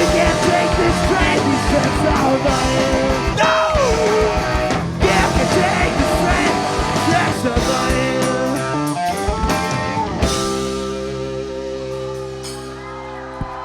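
Live rock band playing with electric guitar, drums and singing. About ten seconds in the drums stop and a held chord rings out as the song ends, with one last hit near the end.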